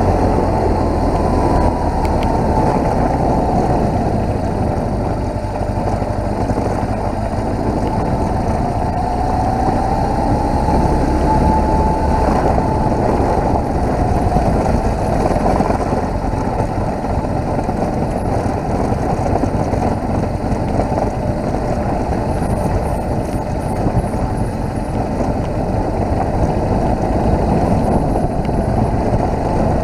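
BMW motorcycle engine running steadily while riding along a road, its pitch rising and falling gently with speed.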